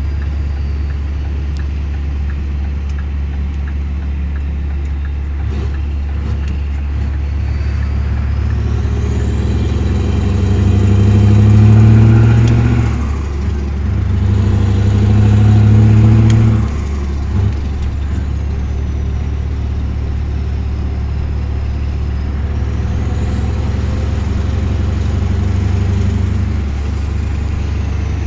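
Scania R620 truck's 16-litre V8 diesel running steadily, then twice rising in revs and loudness for a few seconds, about ten and fourteen seconds in, the second rise cutting off abruptly before it settles back to a steady run.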